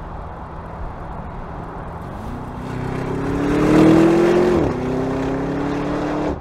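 Audi RS Q8's 4.0-litre twin-turbo V8 accelerating hard: the engine note climbs steadily, loudest just before an upshift about four and a half seconds in, where the pitch drops sharply, then starts climbing again in the next gear.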